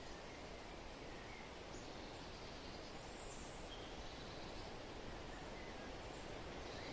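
Steady, soft wind noise, with a few faint short bird chirps here and there through it.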